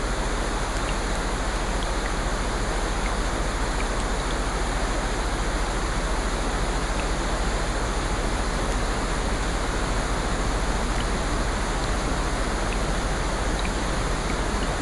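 Steady, even rush of rain-like water noise from a sleep nature-sounds track, with a few faint small ticks scattered through it.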